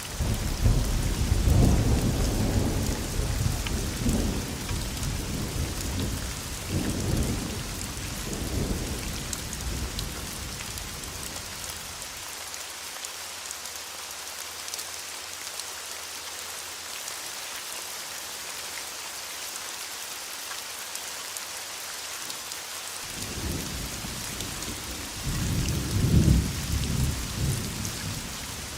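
Steady rain falling, with a roll of thunder rumbling in at the start and fading over about ten seconds, then a second roll building near the end.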